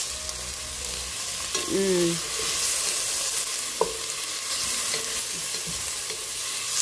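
Onion, ginger and garlic sizzling in hot oil in a stainless steel pot, stirred and scraped around with a wooden spatula.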